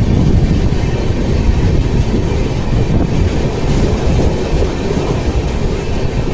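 Indian Railways sleeper coaches running past close alongside on the adjacent track: a loud, steady noise of train wheels rolling on the rails.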